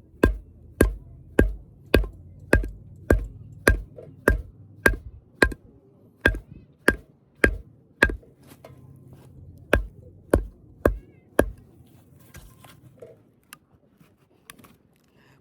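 Repeated hard strikes of a hammer, about twenty blows at a steady pace of under two a second, each with a short metallic ring, stopping about 11 seconds in.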